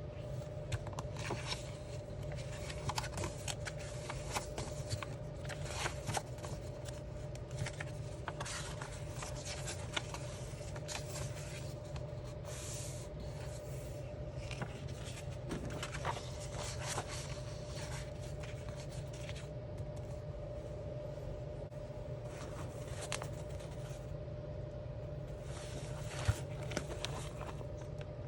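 Alcohol markers stroking and tapping on coloring-book paper in short, irregular scratchy strokes, over a steady low background hum.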